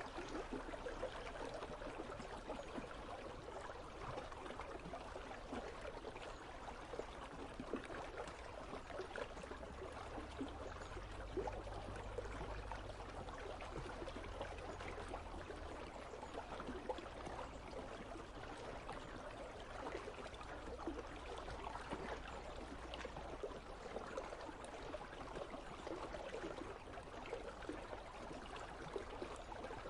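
Icy river water flowing, a steady babbling and trickling rush.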